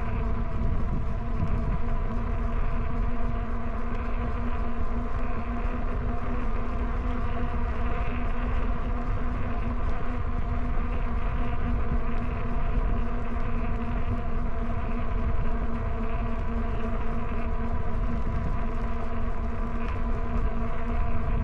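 Ebike ride heard from a bike-mounted camera: steady wind and road rumble with a constant whine at an unchanging pitch.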